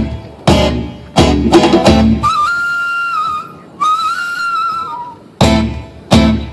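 Fast acoustic instrumental: guitar chords struck in sharp accented hits. Between the hits, a high melody instrument holds two long notes.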